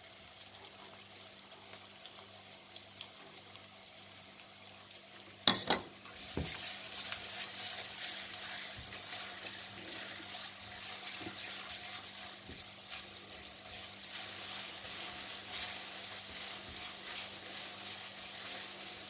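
Onions and ginger-garlic paste frying in hot oil in a steel pan: a steady sizzle, two sharp knocks about five and a half seconds in, then a louder, crackling sizzle as the mixture is stirred with a spatula.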